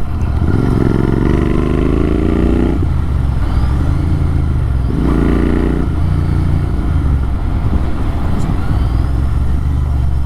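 Motorcycle running on an AEW TE102 exhaust with the dB killer removed, the raw exhaust note steady and low, with the pitch climbing as it pulls harder twice, about half a second in and again around five seconds.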